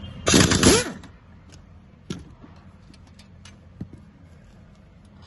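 Screws being taken out of a car's rear seat cover: a short loud burst of tool noise about half a second in, then scattered faint clicks and taps.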